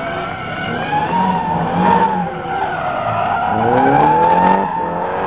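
A car drifting: tyres squealing in a long, wavering screech while the engine revs, its pitch rising in sweeps in the second half.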